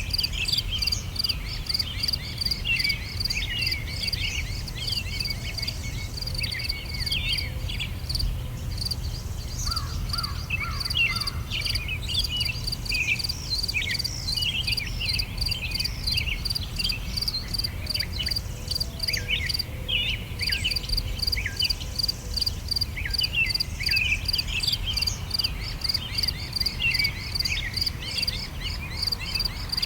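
Songbirds chirping and singing, many short quick notes overlapping, over a steady evenly pulsed chirping of an insect, with a low rumble underneath.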